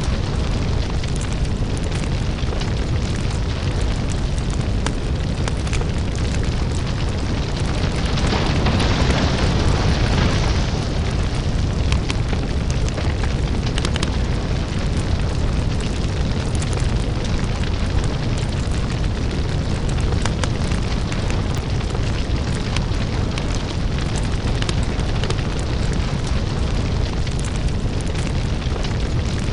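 Crackling lava-fire ambience: a deep steady rumble with scattered crackles and pops, and a brighter hiss that swells for about three seconds around eight seconds in.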